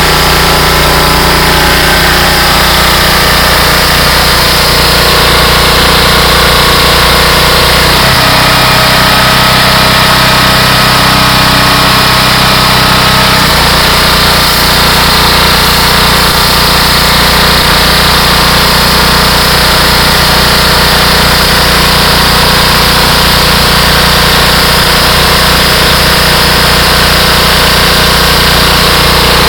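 Shinsho engine-driven high-pressure washer running steadily. Its note changes for about five seconds, starting about eight seconds in, then returns to the first steady note.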